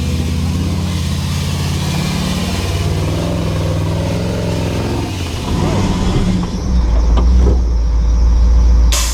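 Nissan GQ Patrol competition 4x4's engine running under load, its note shifting up and down. About seven seconds in, a heavy deep rumble takes over, with a few knocks and a sharp crack near the end.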